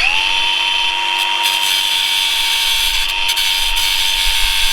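Angle grinder spinning up fast and then running steadily at full speed, being used to grind the rivets off a motorcycle chain link for lack of a chain breaker tool.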